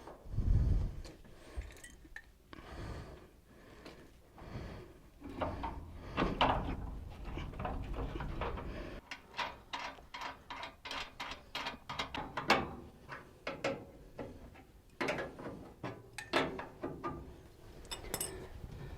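Hands and tools working on a furnace's belt-drive blower assembly: irregular metal knocks, clanks and clicks, with a run of quick clicks in the middle and a few dull thumps.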